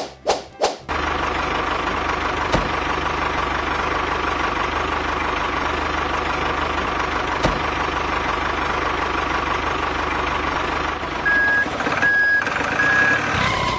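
A few sharp clicks, then a truck engine running steadily, and near the end three high reversing beeps as the truck backs up.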